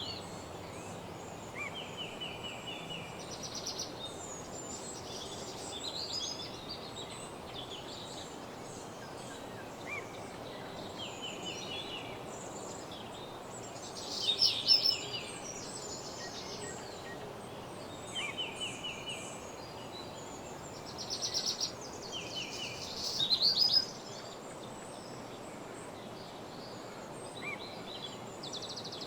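Wild birds singing: short, trilled song phrases repeat every few seconds, with the loudest phrases about halfway and near the end, over a steady background hiss.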